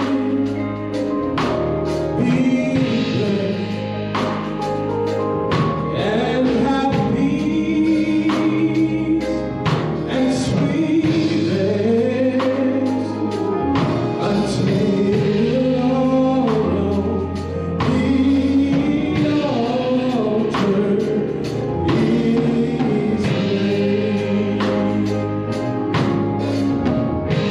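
Gospel music: a choir singing over instrumental backing with a regular beat.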